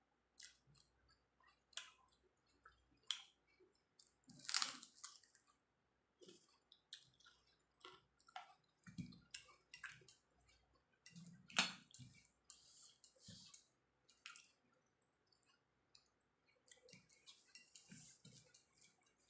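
Close-up eating sounds: a person chewing a meal of rice and jackfruit curry, with scattered soft mouth clicks and smacks and two louder smacks about four and a half and eleven and a half seconds in.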